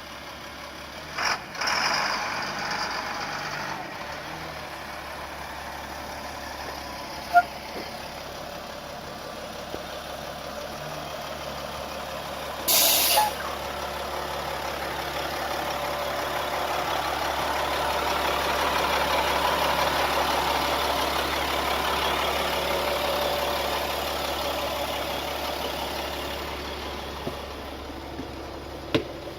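2002 Blue Bird school bus running, with a short, sharp air-brake hiss about 13 seconds in. Afterwards the bus's sound rises slowly and then fades away again.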